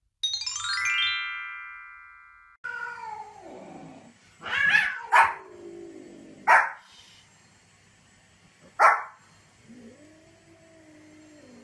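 A short rising chime jingle, then a small dog, a Pomeranian, barking sharply four times while a cat gives drawn-out meows.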